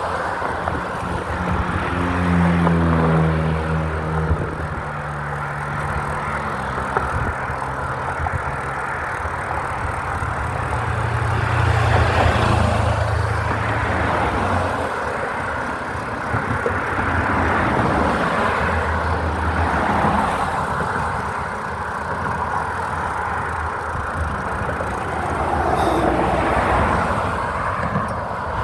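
A motor vehicle's engine with its pitch falling in steps in the first few seconds, then humming low on and off, over steady wind and road noise.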